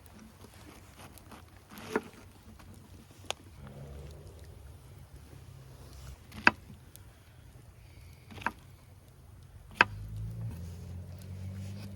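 Wood in a campfire popping: about five sharp, separate snaps a second or two apart, the loudest just past the middle, over a low rumble that swells about a third of the way in and again near the end.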